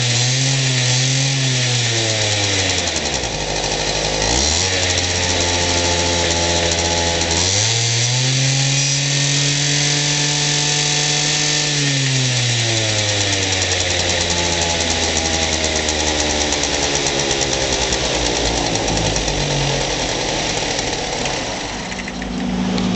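Honda Live Dio ZX scooter's small two-stroke engine (AF34E) running and being revved: a few quick blips, a drop to low revs, then a climb to high revs held for about four seconds before falling slowly back to a steady idle.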